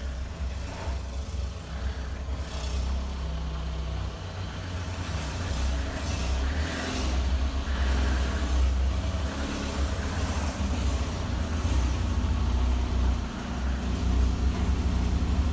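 A VAZ-2113 car's four-cylinder petrol engine running as the car is driven into a garage, a continuous deep rumble that grows louder about five seconds in.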